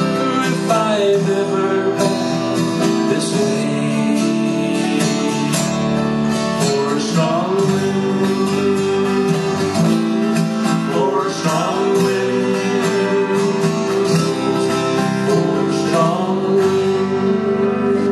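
Live band playing folk music led by strummed acoustic guitar, with sustained melody notes that glide in pitch over it.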